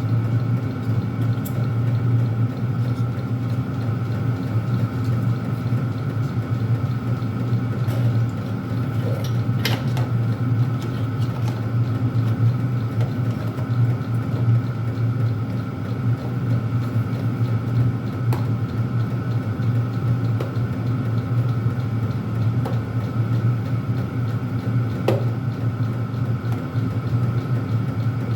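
Steady motor hum of a running Chinese diesel air heater's blower fan, with a few faint clicks along the way.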